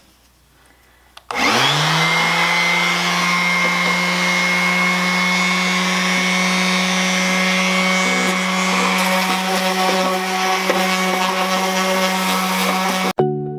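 Bauer random orbital sander switched on about a second in, its motor spinning up quickly and then running steadily with a hum, sanding stickers off wood with 220-grit paper. The sound cuts off abruptly near the end.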